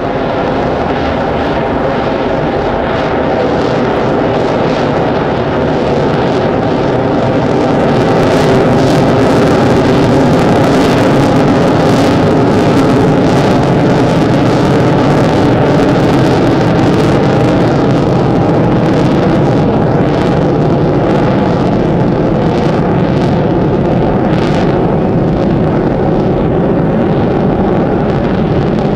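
F-22 Raptor's jet engines roaring as it flies past, a loud continuous roar that builds about eight seconds in and then eases slowly.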